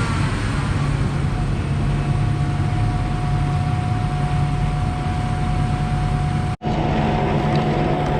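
Concord 40-metre Z-boom concrete pump truck running, a steady engine and hydraulic pump noise with a steady whine joining about two seconds in. There is a sudden brief break about two-thirds of the way through.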